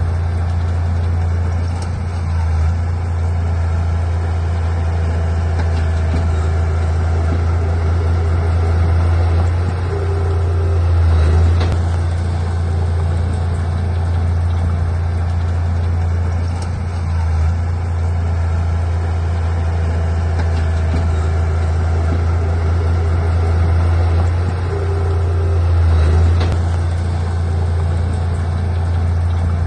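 A heavy diesel engine of earthmoving machinery runs steadily under load. It swells briefly about eleven seconds in and again a few seconds before the end.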